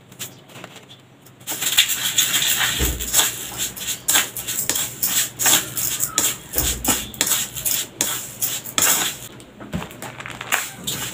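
A mouthful of uncooked white rice being chewed close up: dense, rapid crunching and crackling of the hard grains between the teeth, starting about a second and a half in.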